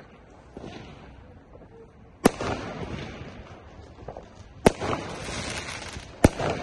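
Fireworks going off: three sharp bangs, a little under two and a half seconds apart, each trailing off in an echo.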